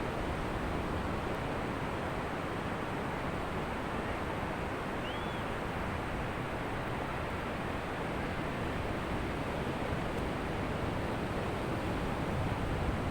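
Ocean surf washing steadily onto a beach: a continuous, even rush of waves with no distinct breaks.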